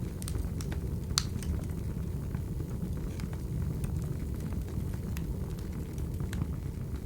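Crackling wood fire: a steady low rumble with scattered sharp pops, the loudest about a second in.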